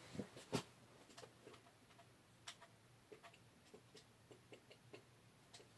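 Near silence with scattered faint clicks and taps over a low hum, one slightly louder click about half a second in.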